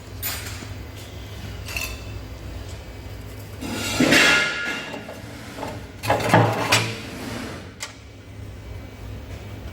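Several hard knocks and clinks over a steady low hum, the loudest about four seconds in with a brief metallic ring, then a cluster of knocks a couple of seconds later.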